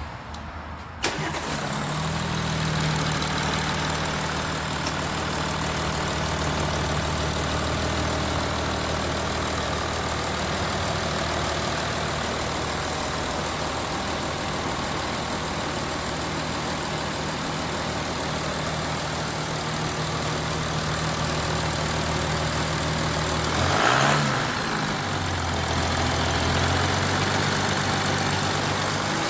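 Audi A8 3.0-litre V6 turbodiesel starting about a second in on its first start after an oil and filter change. It flares briefly, then settles into a steady idle. Near the end the note rises and falls once, briefly.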